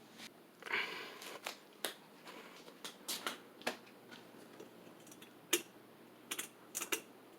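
Irregular light clicks and taps, scattered unevenly, with a short rustle about a second in: handling noise.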